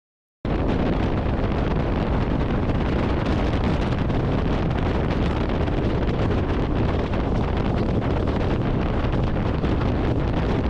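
Steady wind rush on the microphone of a camera riding on a motorcycle at freeway speed, with road and vehicle noise mixed in. It cuts in suddenly about half a second in.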